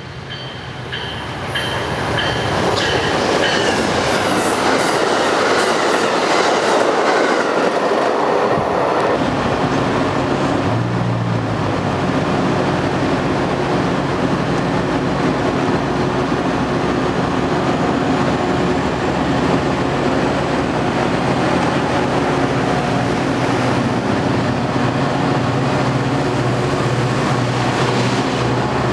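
A diesel-hauled train going by close: the rumble builds over the first couple of seconds, with high squealing tones from the wheels in the first few seconds, then settles into the steady drone of diesel engines over the rush and clatter of wheels on rails.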